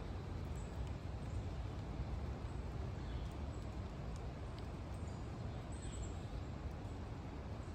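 Footsteps walking along a wet trail over the steady rush of a swollen, rain-fed creek.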